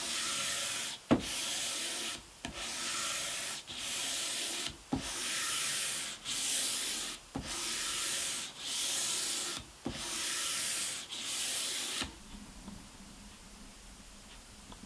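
Hand-sanding a wooden guitar fretboard with 240-grit cloth-backed sandpaper: even back-and-forth strokes of about a second each, some with a light knock at the turn. The sanding stops about twelve seconds in.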